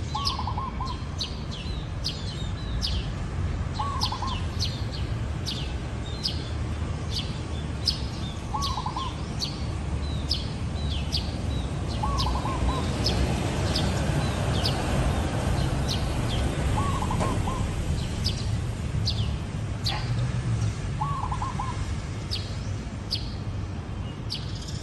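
Zebra dove cooing: a short trilled phrase about every four seconds, six times, over many sharp high chirps from other small birds and a steady low background noise.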